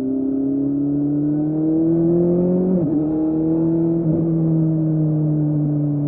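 2006 Kawasaki Z750's inline-four running through a Scorpion carbon exhaust with the dB killer removed, pulling with slowly rising revs. A quick upshift comes about three seconds in and a brief dip a second later, then the engine holds a steady cruise.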